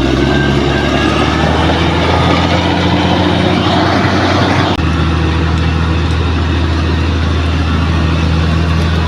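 Heavy diesel engine of a bulldozer running steadily at working revs, with extra clatter and hiss in the first half and an abrupt change about halfway through to a smoother, steady engine note.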